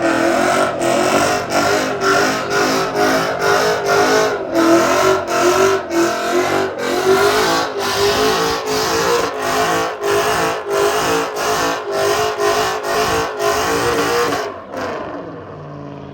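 Car engine held at high revs, as in a burnout, with a steady pattern of brief cut-outs about twice a second like a rev limiter. It drops off about a second and a half before the end.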